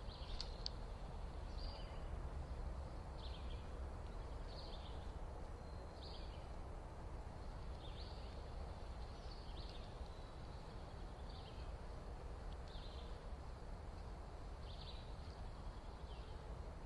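A bird calling, a short high note that slides downward, repeated about a dozen times at roughly one every second and a half, over a steady low rumble.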